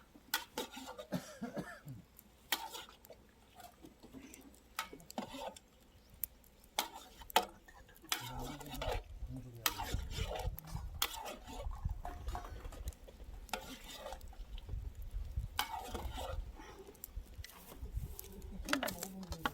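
Metal utensils clinking and scraping against a cooking pot, with scattered sharp knocks as food is stirred and ladled out. A low rumble runs underneath from about halfway through.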